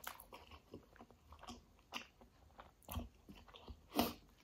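Close-miked mouth chewing a soft mouthful of rice and kadhi, faint, with scattered short wet clicks and smacks; the loudest comes just before the end.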